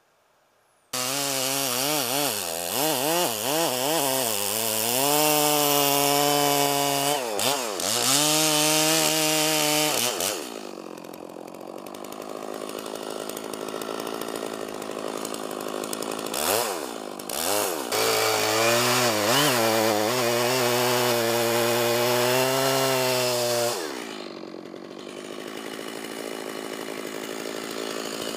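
Two-stroke chainsaw cutting oak wood: it starts abruptly about a second in, works under load with its pitch wavering as the chain bites, and twice drops back to idle between cuts.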